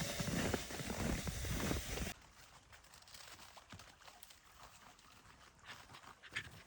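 A loud rushing noise with a low rumble that cuts off abruptly about two seconds in, followed by faint, scattered crunching steps in snow.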